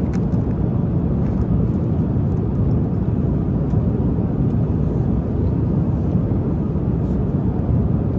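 Steady low drone of an airliner cabin in flight: even engine and airflow rumble, with a few faint light clicks over it.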